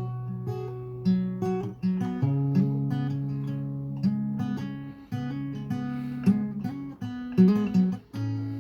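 Acoustic guitar strumming chords in C-sharp minor: the instrumental intro of the song, with held notes changing about every second.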